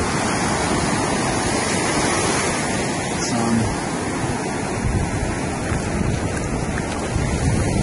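Ocean surf breaking and washing onto a beach, a steady, even noise, with some wind on the microphone.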